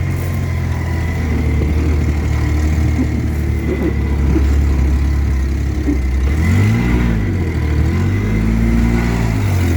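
Old junk truck's engine running hard off-road, revving up and back down twice in the second half. A thin steady high whine runs along with it.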